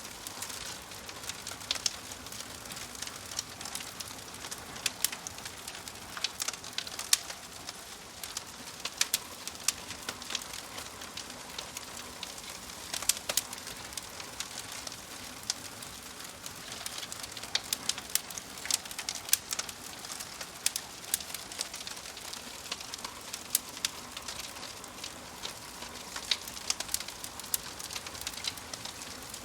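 Wood fire crackling in a wood-burning stove: a steady hiss with frequent sharp pops and snaps at irregular intervals.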